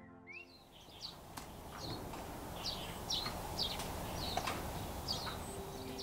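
A bird chirping again and again, in short high falling notes roughly once a second, over a steady outdoor background hiss. Music fades out right at the start.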